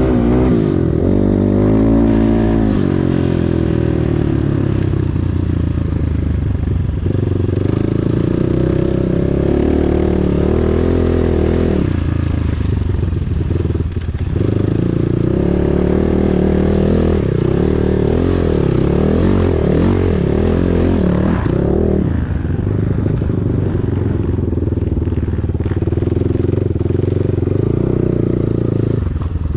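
Enduro motorcycle engine under way, its pitch repeatedly rising and falling as the throttle is opened and closed through the gears. The revs drop off briefly about halfway through.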